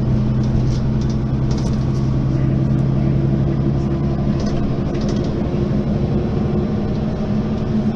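Mercedes-Benz Citaro facelift city bus running, a steady engine drone whose tone changes about halfway through as the engine note shifts.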